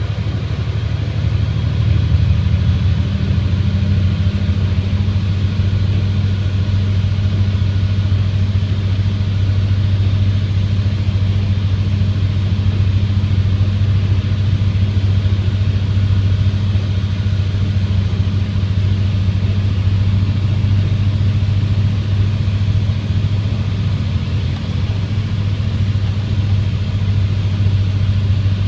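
Engine of a snow-plowing vehicle running steadily, a low, even drone.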